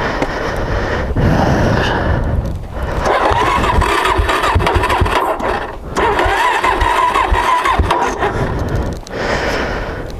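Suzuki DRZ400S's electric starter cranking its single-cylinder four-stroke engine in about five bursts with short pauses between them. The starter whines and the engine turns over unevenly without catching, as the battery runs down.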